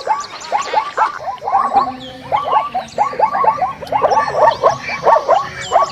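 An animal call sound effect: a fast run of short, yelping calls, several a second, each sweeping up and down in pitch, with fainter high chirps above them.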